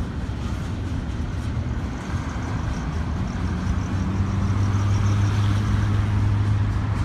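Double-stack container train rolling steadily across a bridge, mixed with freeway traffic passing underneath. A steady low engine hum comes in about halfway through and grows louder.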